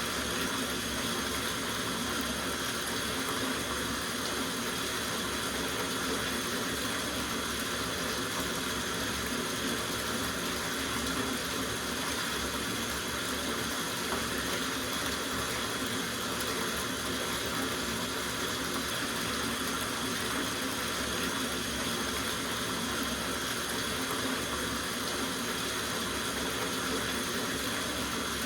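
Tap water running steadily into a soaking bathtub, a constant rushing noise that does not change.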